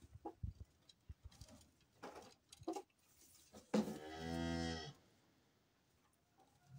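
A cow mooing once, a single call of about a second, with a few faint knocks before it.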